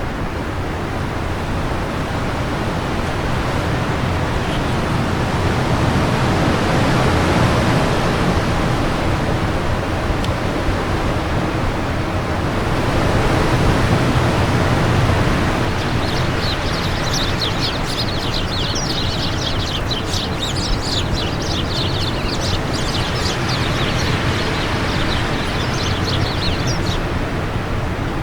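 Wind blowing in gusts, swelling twice. From about halfway in, a bird twitters in quick short high chirps for roughly ten seconds.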